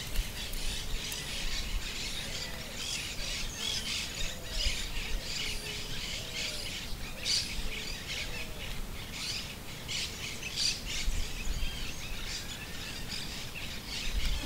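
Wild birds chirping and calling, many short high chirps overlapping, with a lower looping call repeated about once a second for several seconds near the start.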